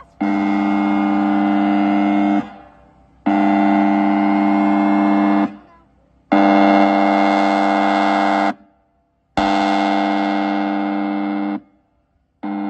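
Outdoor warning siren sounding a loud, steady chord in pulses. There are four blasts of about two seconds each, a fifth starts near the end, and the gaps between them are under a second. Each blast starts and stops abruptly, with no wind-up in pitch.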